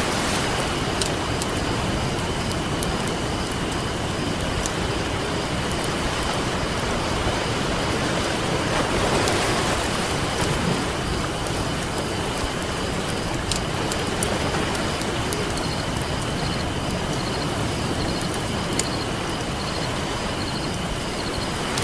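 Ocean surf washing onto a beach, a steady rush that swells about nine seconds in, with a few sharp crackles and pops from a campfire.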